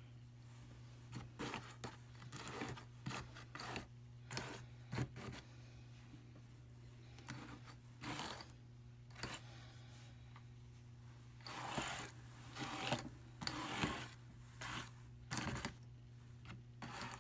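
Wool being worked on a Brother hand-crank drum carder: Targhee fiber scraping and rustling against the fine carding cloth in irregular bursts, some short and some lasting about a second.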